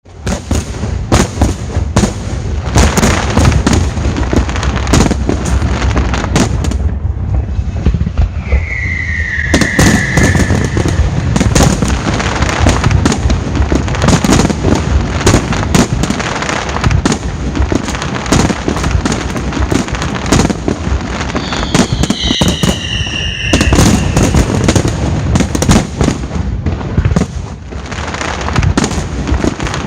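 Fireworks display: a dense run of shell bursts and crackling bangs, with a falling whistle about eight seconds in and several falling whistles together around twenty-one seconds in.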